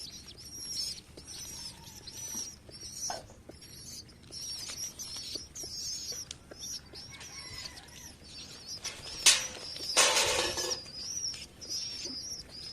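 Birds chirping steadily in quick, repeated high chirps, with scattered light taps. About nine seconds in comes a short, loud flurry of wing flapping.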